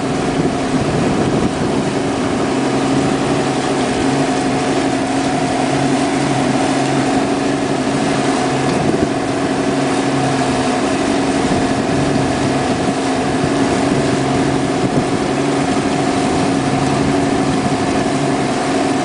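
Motorboat engine running at a steady speed, a constant drone with a noisy wash over it.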